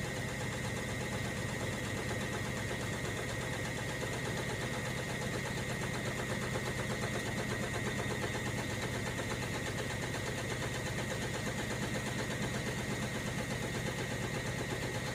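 Hoover Logic washing machine running its cotton 60 programme: a steady motor hum with a thin, high whine that holds even throughout.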